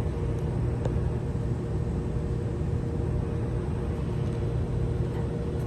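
Steady low background rumble with a faint steady hum, and one faint click a little under a second in.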